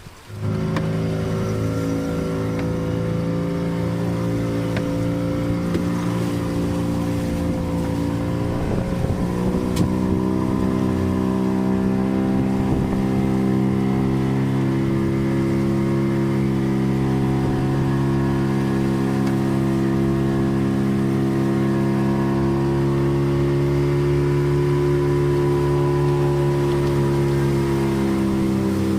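Fishing boat's engine running steadily. It comes in abruptly right at the start and shifts pitch about nine seconds in, as the speed changes.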